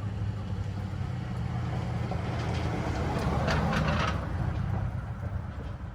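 BMW N52 straight-six engine idling steadily, with a misfire logged on cylinder 6. A short burst of crackly noise rises over it about three and a half seconds in.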